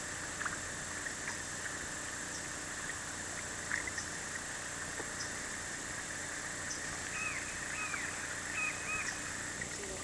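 Steady faint outdoor background hiss, with a few soft high chirping calls about seven to nine seconds in.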